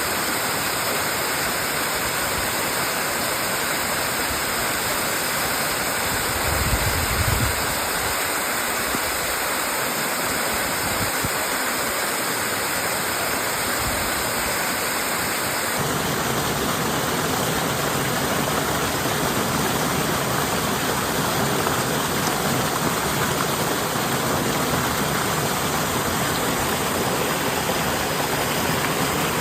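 Waterfall: a steady, loud rush of falling water. About halfway through the sound abruptly becomes fuller and deeper, and there is a brief low thump about seven seconds in.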